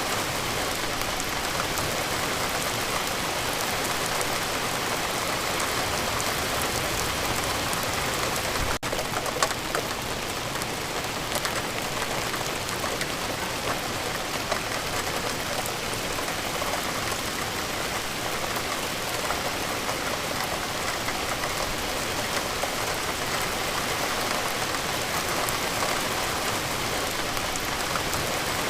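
Steady rain falling, a dense even patter of drops on surfaces, with a momentary drop-out in the sound about nine seconds in.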